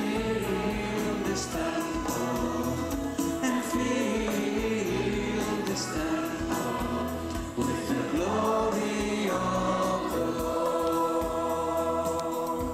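Choir singing a gospel worship song, with long held, wavering sung notes over a steady bass.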